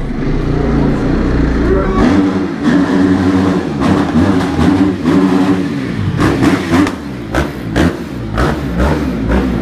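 Dirt bike engine revving, its pitch rising and falling through the gears, then blipped in short bursts in the second half.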